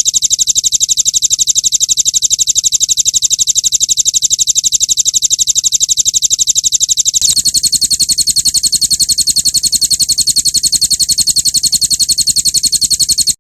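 High-pitched recorded bird trill of very fast, even pulses, played as a bird-master training track; it shifts to a slightly different tone about seven seconds in.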